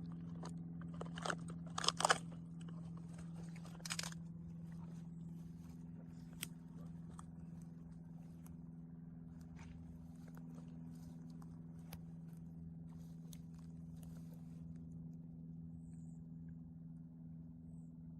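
A few sharp crunching rustles and clicks, loudest in the first four seconds, then fainter scattered ticks, over a steady low hum.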